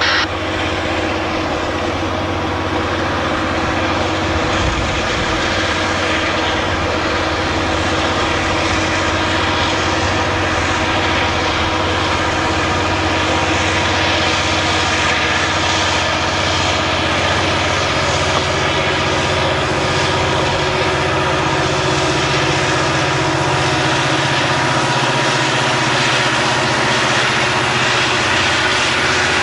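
Diesel freight locomotives running, a loud, steady engine drone over rolling noise.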